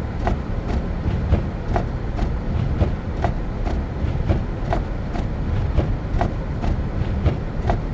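Car's low cabin rumble, with a regular ticking through it about two times a second.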